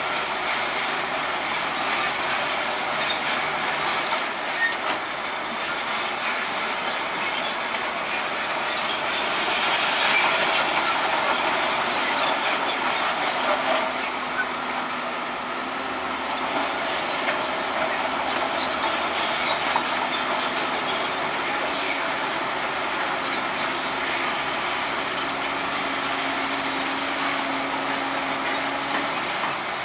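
Crawler bulldozer working: its diesel engine running steadily under the clatter and high squeal of its steel tracks.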